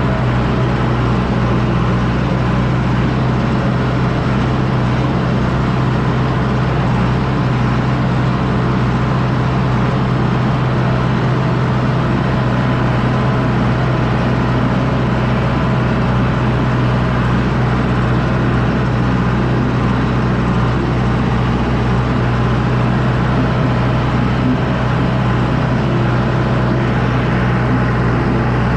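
John Deere 6110D tractor's diesel engine running steadily under load, pulling a disc harrow across the field.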